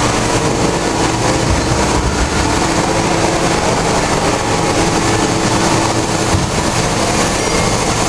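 Machine-shop machinery running steadily: a loud, even mechanical din with a faint steady hum underneath.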